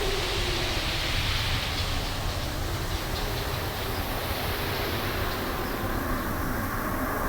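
Wind blowing steadily through trees, a constant rushing with deep rumble and a faint howl that wavers in pitch near the start and again near the end.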